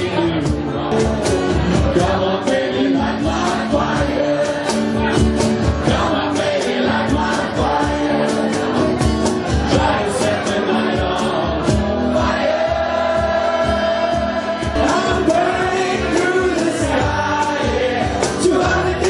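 Live rock band playing with a crowd singing along, over a steady drum beat.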